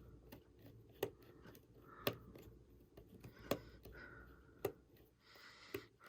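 Small precision screwdriver working the tiny screws of an iPhone 6: five sharp, light clicks about a second apart, with faint handling noise between them.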